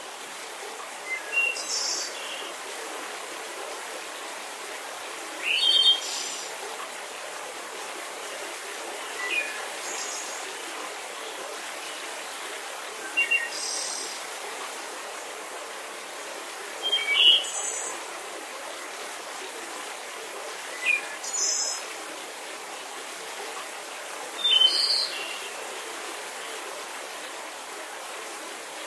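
Bird calls: a short burst of chirps, repeating about every four seconds, over a steady background hiss.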